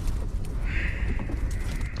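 Strong gale buffeting a small camper van: a constant low rumble with scattered light rattles, and a high whistle that starts about half a second in and lasts about a second and a half.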